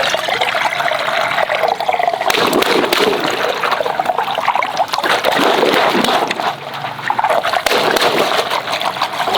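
Water running in a steady, continuous stream, with a brief lull about two-thirds of the way through.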